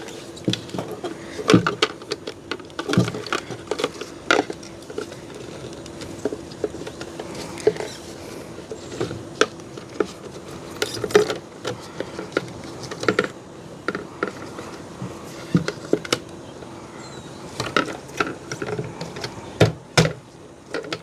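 Irregular plastic clicks and knocks as a fuel pump assembly is handled and its retaining clips are pushed and snapped into place, over a faint steady hum.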